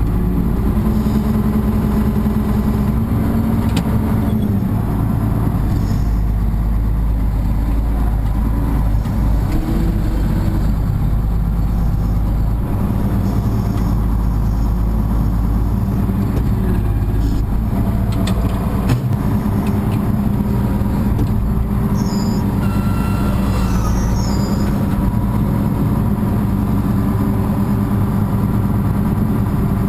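Tractor engine running steadily with an even low drone, with a few faint high squeaks about three-quarters of the way through.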